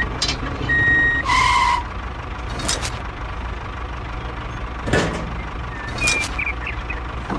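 A small tractor engine hums steadily and low throughout. Short high electronic beeps sound in the first two seconds, and a few sharp knocks come later.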